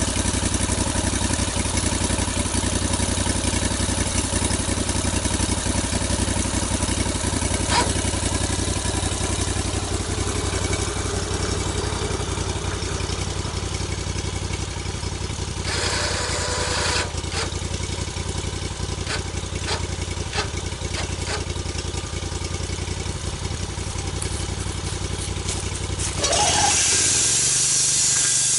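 Log-milling saw's engine idling steadily with a few knocks, then revving up near the end as a loud sawing hiss begins: the saw starting a cut into a log.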